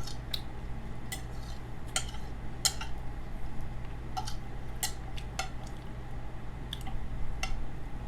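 Cutlery clinking against a plate during a meal: about ten short, sharp clinks at irregular intervals, over a steady low hum.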